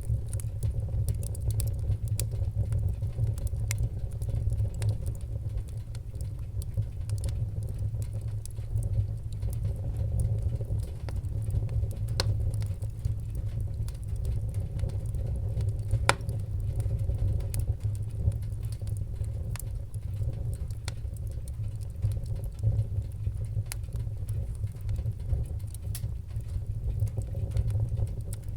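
Wood fire crackling in a fireplace: frequent small sharp pops and crackles over a steady low rumble, with one louder pop about sixteen seconds in.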